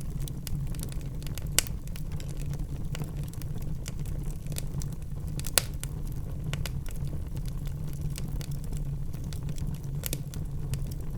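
Wood fire burning in a fireplace: a steady low rumble of flames with scattered sharp crackles and pops, two louder snaps about a second and a half in and again near five and a half seconds.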